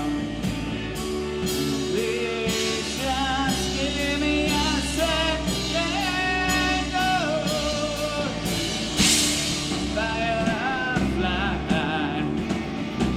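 A rock band playing live: a drum kit keeps a steady beat of about two strikes a second under a wavering, pitch-bending melodic lead line, with a cymbal-like crash about nine seconds in.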